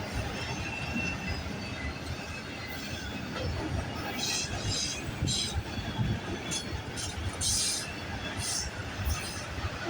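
Freight cars of a CN freight train rolling past with a steady low rumble, with several short high-pitched wheel screeches in the second half.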